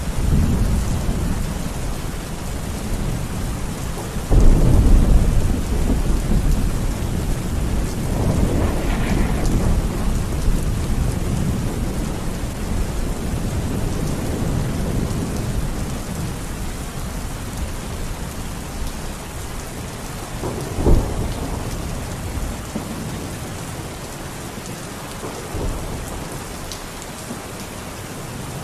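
Steady heavy rain with thunder: a loud rumble breaks in suddenly about four seconds in, another rolls around eight seconds, and a sharper crack comes about three-quarters of the way through, the thunder easing off toward the end.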